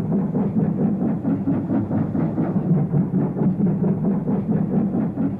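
Steam locomotives working hard up a steep bank, a rapid, continuous run of chuffing exhaust beats.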